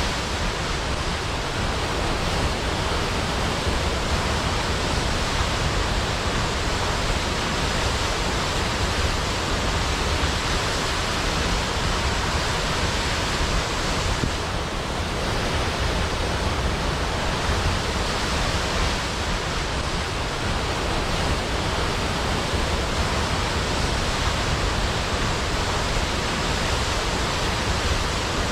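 Large waterfall plunging into a pool: a steady, dense rush of falling water with no let-up.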